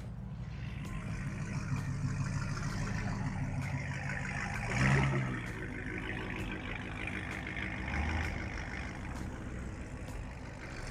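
Car engine running steadily at low revs. The engine noise swells briefly about halfway through, and a smaller swell follows a few seconds later.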